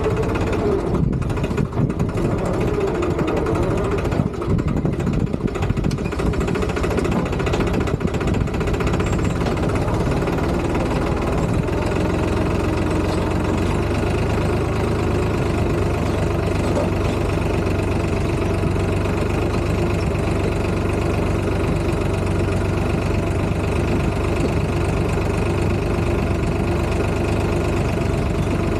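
Tractor diesel engine running steadily. Its pitch shifts a little in the first few seconds, then holds even.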